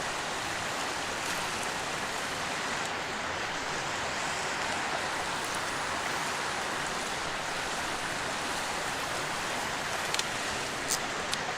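Steady rushing of a clear mountain river, with a few light clicks near the end.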